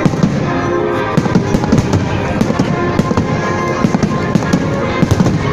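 Fireworks display going off in rapid, irregular bangs and crackles, several a second, over music playing.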